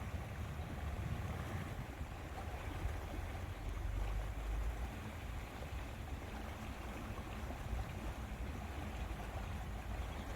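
Steady lakeside ambience: a low wind rumble on the microphone with a soft wash of lapping water.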